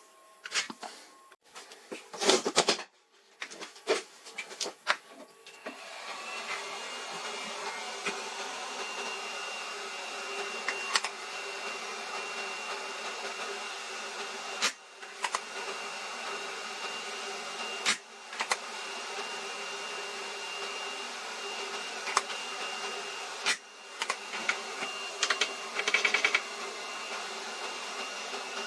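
A small electric motor starts about six seconds in after a few clicks and knocks, then runs steadily with a hum and a high whine, cutting out briefly with a click three times.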